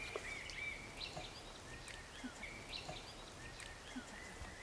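Small birds chirping: many short, high, repeated chirps over a faint outdoor background hiss, with a few faint soft taps.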